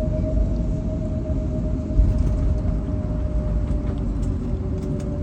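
Airbus A321neo's CFM LEAP-1A engines running, a steady mid-pitched whine over a heavy low rumble.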